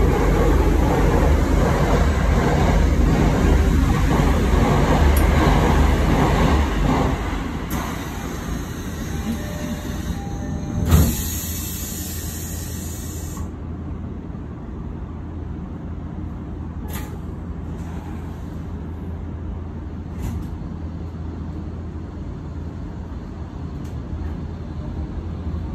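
Tobu Railway electric commuter train running on the line, heard from inside the car: a steady rumble of wheels on rail, louder for the first several seconds and then quieter, with a single sharp knock about eleven seconds in.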